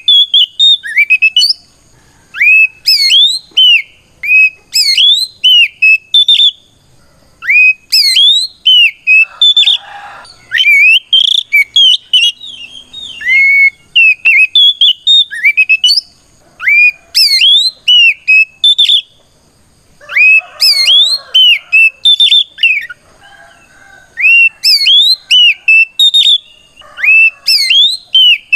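Oriental magpie-robin singing its loud fighting song (ngeplong), the song it uses to call out a rival: bursts of clear, sweeping whistled phrases a second or two long, with short pauses between them.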